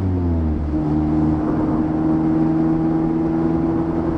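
Mazda MX-5's 1.5-litre four-cylinder engine running on the road. Its revs dip in the first second, then hold a steady note.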